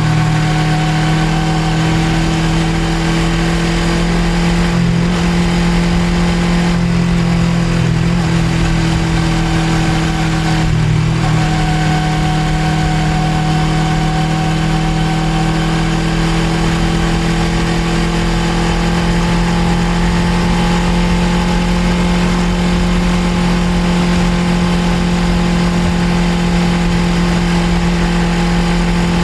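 Suzuki GSX250R's parallel-twin engine running steadily under way, its note briefly breaking about five, seven and eleven seconds in before settling to a steady pitch, over a constant rush of noise.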